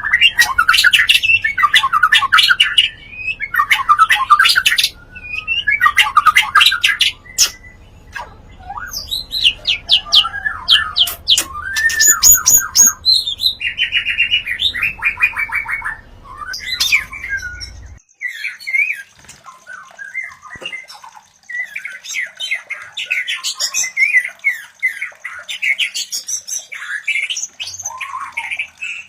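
White-rumped shamas (murai batu) calling during mating: loud bursts of fast note trains and whistled phrases, one after another. About two-thirds of the way through a low hum under the calls stops abruptly, and a thin steady high tone runs beneath the calls from then on.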